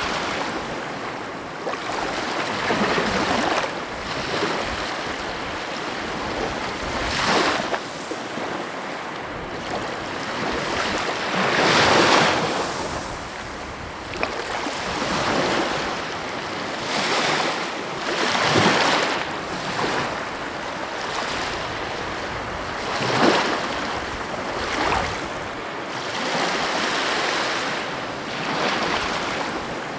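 Sea waves washing onto a shore, the surf surging and falling back every few seconds, with the loudest break about twelve seconds in.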